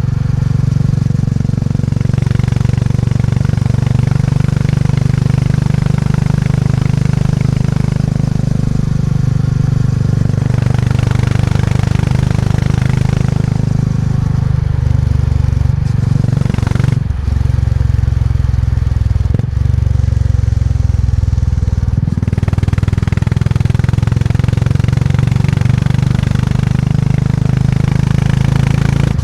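Motorcycle engine running steadily under way. Its note drops lower about halfway through, with two brief breaks in it, before settling back to a steady pull.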